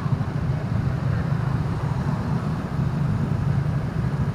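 Steady low engine and road rumble of a vehicle being driven through city traffic.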